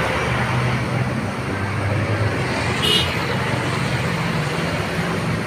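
Diesel bus engine running steadily amid traffic noise, with a short high tone about three seconds in.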